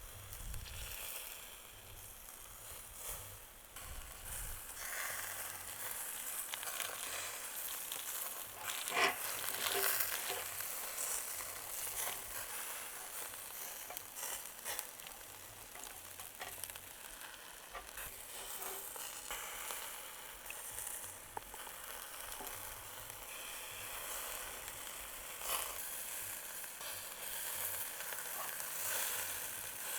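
Chicken sizzling steadily as it cooks, with scattered crackles. There is a sharp knock about nine seconds in and a smaller one near the end.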